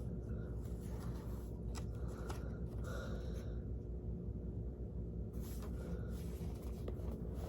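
Steady low electrical-sounding room hum with a few faint rustles and light clicks scattered through it.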